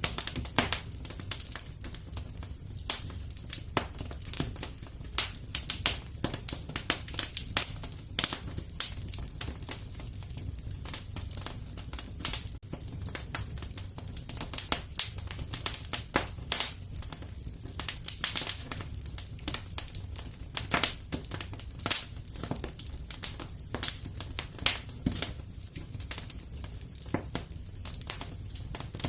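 Wood fire crackling in a fireplace: irregular snaps and pops, a few loud ones, over a steady low rumble.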